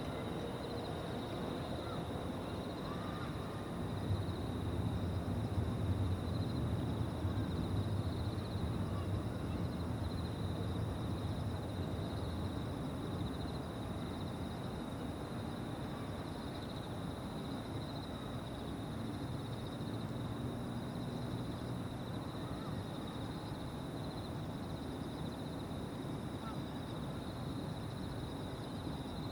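Insects chirring steadily and high-pitched along a riverbank. A low rumble from a jet airliner climbing out of Haneda Airport swells about four seconds in and fades away over the next ten seconds.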